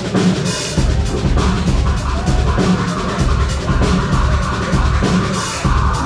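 Live metal band playing loud and fast, with a pounding drum kit, rapid kick-drum and snare hits, over a heavy, dense band sound.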